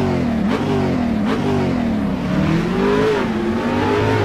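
Sports car engine sound effect, revving up through the gears: its pitch climbs and drops back sharply twice in the first second and a half, then climbs more slowly and levels off.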